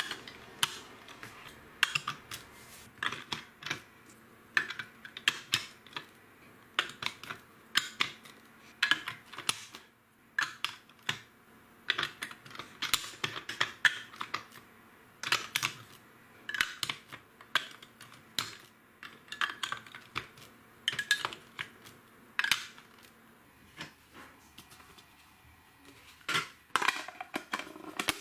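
Plastic LEGO bricks clicking and clattering as they are handled and fitted together: irregular sharp clicks, sometimes in quick clusters of several.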